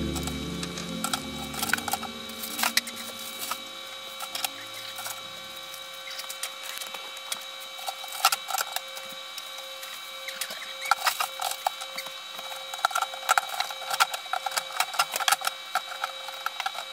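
Irregular light clicks and knocks of things being handled and set down while a fridge is organized, over a faint steady whine. Background music fades out in the first few seconds.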